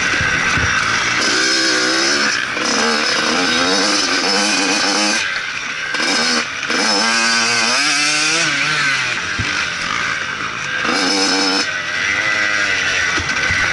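Motocross bike's engine revving up and falling away again and again, over a heavy rush of noise.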